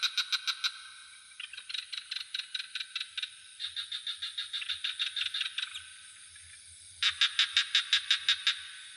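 Frogs calling in bouts of rapid, even pulses, about eight a second, from at least two callers at slightly different pitches, one taking over as another stops. Under them runs a steady high insect trill.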